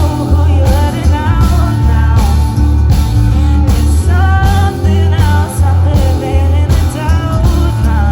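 Live band playing a rock song: a singer's voice over a heavy bass line and a steady drum beat.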